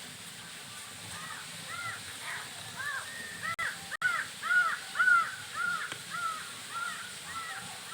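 A bird calling over and over, a quick run of short, arching calls about two a second, loudest in the middle of the run.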